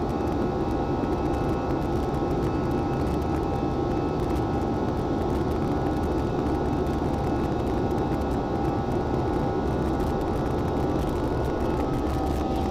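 Jet airliner cabin noise during the climb after takeoff: a steady roar of the engines and rushing air, with a few faint steady whining tones above it.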